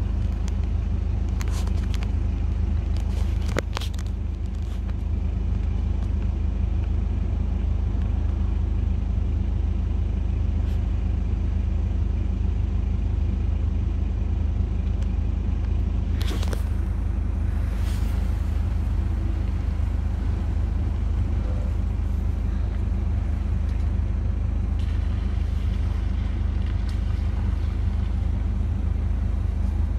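Steady low hum of a car's engine idling, heard from inside the cabin, with a few short clicks and knocks.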